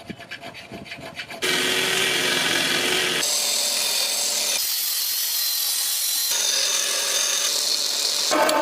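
Power tool grinding or sanding the blade stock, a steady loud grinding hiss with a few held tones. It starts abruptly after about a second and a half of quieter scraping and changes tone sharply at several cuts between work shots.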